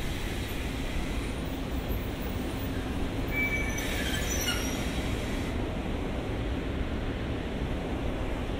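Train running through the station with a steady rumble, its wheels squealing briefly about halfway through.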